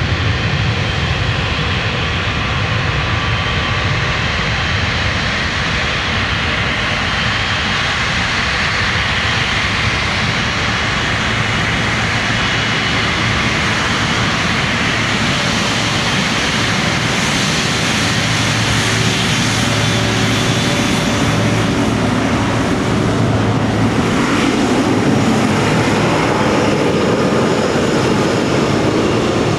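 Jet airliner's engines at takeoff thrust, a loud steady rush with faint whining tones running through it.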